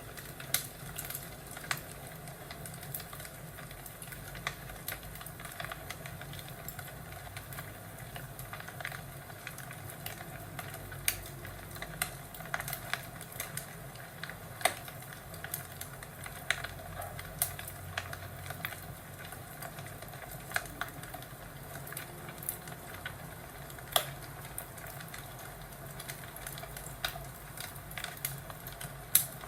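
Wood fire crackling in a fireplace: a steady low hiss broken by irregular sharp pops and snaps, several a second.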